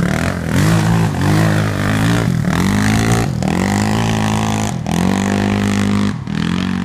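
Honda TRX450R quad's single-cylinder four-stroke engine through a DG aftermarket exhaust, revved hard in repeated throttle bursts while cutting donuts on gravel. The pitch climbs and falls several times, with brief drops between bursts.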